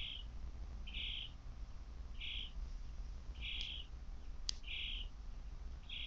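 A bird giving a short, harsh call over and over, about six times at an even pace of roughly one every second and a quarter, with a quick sharp high chirp about four and a half seconds in.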